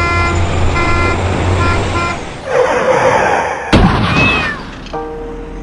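A train horn blaring, cutting out in a few short blasts, then a rushing rumble and a single sharp bang about two-thirds of the way through, followed by a brief high squeal and the horn tone returning near the end.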